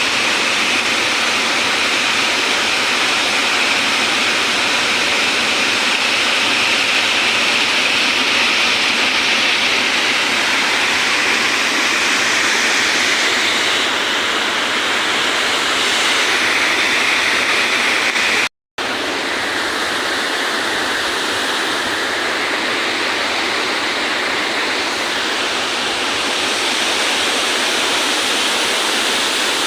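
Waterfall rushing in a loud, steady wash of falling water, broken once by a momentary gap of silence about two-thirds of the way through.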